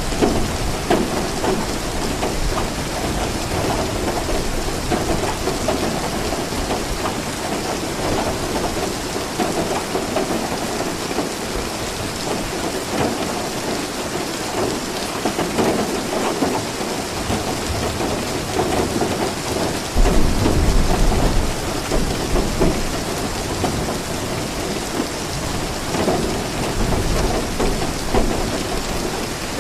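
Steady rain falling, with low rolls of thunder; the loudest rumble comes about two-thirds of the way through.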